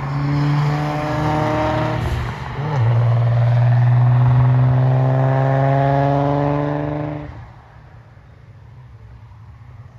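Nissan 300ZX twin-turbo's 3.0-litre V6 pulling hard under acceleration. There is a brief break like an upshift about two and a half seconds in, then the pitch climbs again. The engine note falls away sharply about seven seconds in, leaving only a faint distant sound.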